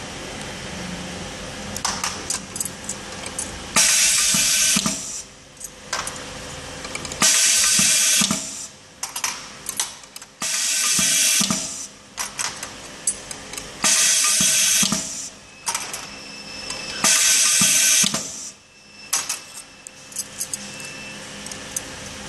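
Automatic packaging machine working in cycles: a loud hiss lasting about a second comes five times, roughly every three and a half seconds, with light mechanical clicking and a low steady hum between the bursts.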